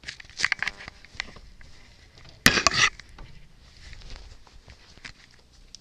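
Rustling and knocking handling noise, with a louder clatter about two and a half seconds in.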